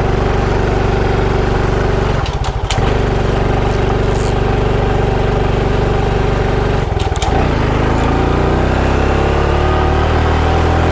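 Motorcycle engine running under way, with two brief breaks in its sound about two and seven seconds in. After the second break the engine's pitch climbs steadily as it speeds up.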